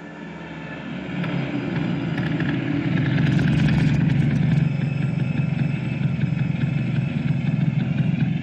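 Small car engine running as the car drives up and passes close by, growing louder over the first few seconds and loudest about three to four seconds in, then running on steadily as it pulls up.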